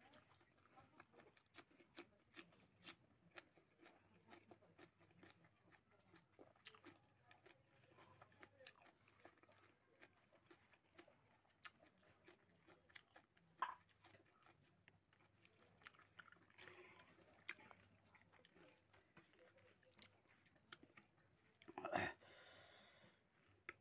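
Faint mukbang eating sounds: a person chewing pork hock curry and rice eaten by hand, with a steady run of small wet smacks and clicks. A sharper click comes about halfway through and a louder burst near the end.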